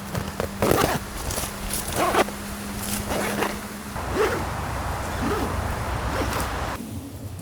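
A few short rasping strokes of a tent zipper being worked, over a steady rush of wind, with a low steady hum that stops about four seconds in.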